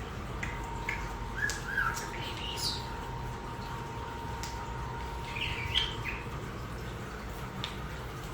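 Pet European starlings calling: scattered clicks, short chirps, a quick rising whistle and a brief warbled phrase. A faint steady tone runs underneath until about six seconds in.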